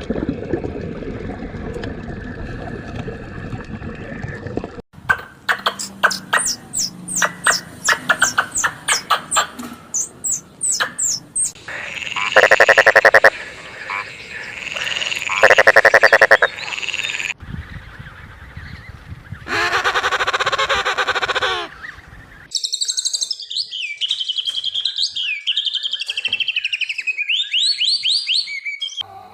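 A sequence of different recorded animal calls that changes every few seconds: rapid chirps, two loud pulsed calls in the middle, then high gliding bird calls near the end, with frog-like croaking among them.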